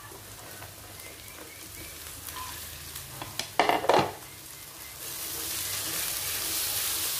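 Chopped chillies and spice aromatics frying in oil in a stainless steel wok over a high flame, sizzling steadily. A short clatter comes a little past halfway, and the sizzle grows louder and hissier over the last two seconds.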